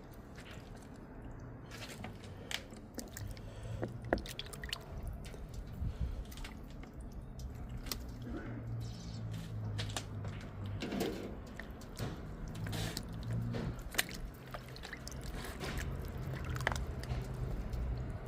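Kitchen handling sounds: scattered clicks and knocks with wet, liquid noises, over a steady low hum.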